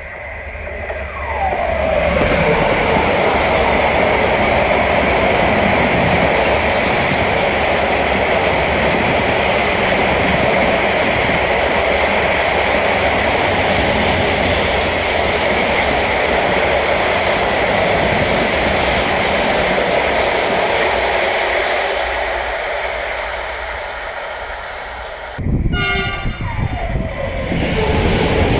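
Freight train passing at speed: a tone falling in pitch as the locomotive goes by, then the steady rumble and clatter of the wagons, slowly dying away. Near the end an abrupt cut brings in another train passing, again with a falling tone.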